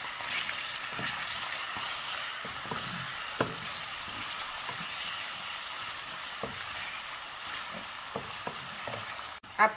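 Tomato paste, diced onion and red pepper frying in vegetable oil in a saucepan: a steady sizzle with scattered small pops and ticks.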